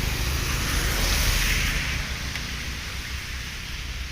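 Steady hiss of heavy rain with a low rumble underneath; the hiss eases off about halfway through.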